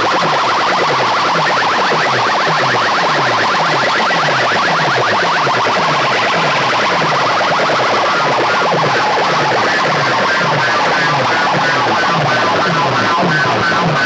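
Loud electronic siren-style music played through a competition DJ sound system: a falling bass sweep repeats about twice a second under a fast warbling, alarm-like tone. About halfway through, a higher beeping pattern joins in.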